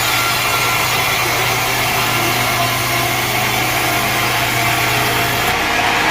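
Sawmill machinery running steadily, a constant mechanical noise over a low hum, between cuts; about five and a half seconds in the hum stops and the sound changes.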